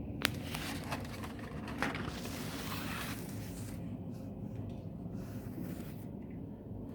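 Snowstorm ambience: a steady low rumble with hissing gusts and a few sharp clicks, the loudest about a quarter second in and another about two seconds in.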